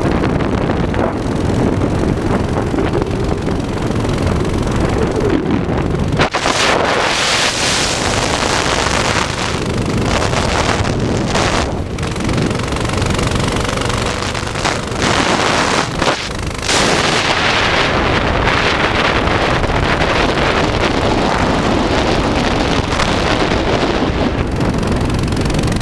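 Wind buffeting the microphone on a moving mini bike, with the bike's small engine running underneath. The noise dips briefly a couple of times.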